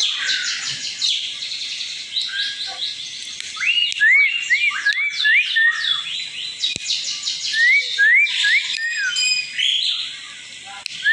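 Asian pied starling (jalak suren) singing: runs of four or five rising-and-falling whistles, about two a second, over fast descending chattering notes.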